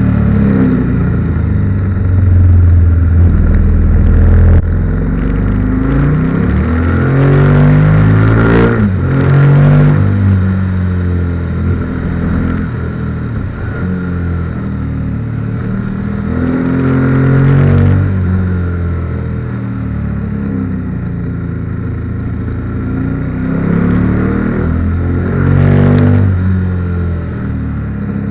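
KTM 1290 Super Duke R's V-twin engine heard from on board while riding, its revs climbing under acceleration and dropping off again several times along twisting road.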